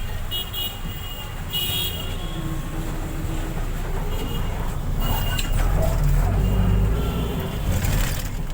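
Busy street traffic: vehicle engines running with a steady low rumble, and a short horn toot about a second and a half in.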